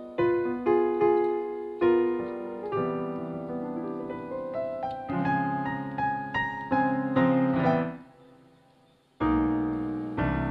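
Background piano music: a slow run of single notes and chords that dies away about eight seconds in, followed by a new chord about a second later.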